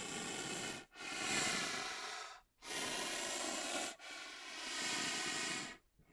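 An animal making four long, breathy, hissing sounds in a row, each lasting a second or more and holding a steady pitch.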